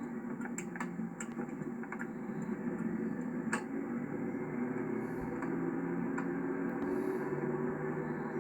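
Steady low engine and road drone heard inside the cabin of a 1991 Chevrolet Caprice Classic while cruising, with a few sharp clicks in the first few seconds, the loudest about three and a half seconds in.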